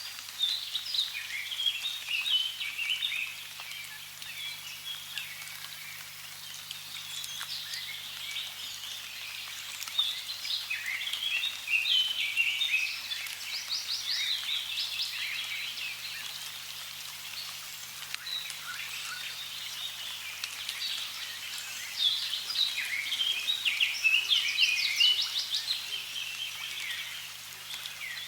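Many birds chirping and trilling at once, busiest about a third of the way in and again near the end, over a soft steady hiss of running water.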